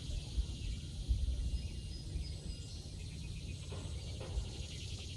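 Outdoor background: a steady, high chorus of insects chirring over a low rumble, with a few faint knocks.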